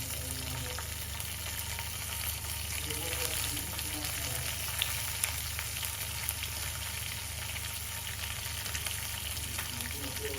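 Cumin seeds sizzling and spluttering steadily in hot oil in a pan, with a few sharp pops about halfway through.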